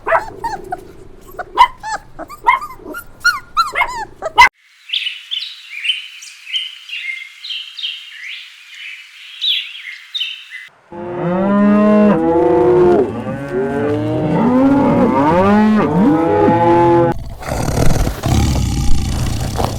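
A run of different farm-animal calls one after another. First come short sharp calls, then several seconds of high chirping, then loud calls that rise and fall in pitch. Near the end there is a rough, noisy roar-like sound.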